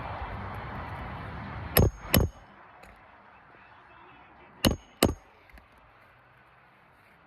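Roofing nails being driven through a replacement asphalt shingle: two pairs of sharp, ringing strikes about three seconds apart. A steady background rush drops away after the first pair.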